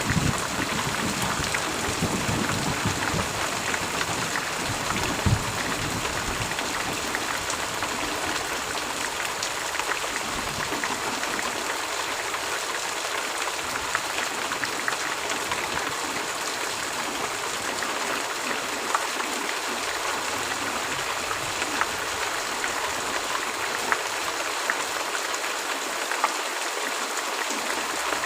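Heavy rain falling steadily, an even hiss of rain with a fine patter of individual drops. A low rumble, the tail of thunder, dies away in the first few seconds.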